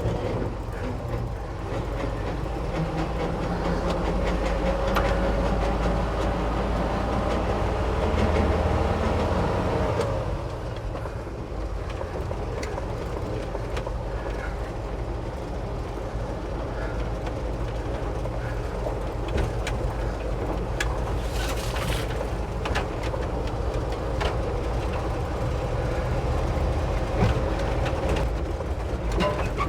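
Ford F600 truck driving, heard from inside the cab: a steady engine and drivetrain rumble with road noise. The engine note climbs over the first several seconds, drops about ten seconds in, then runs on evenly, with a few scattered knocks and rattles.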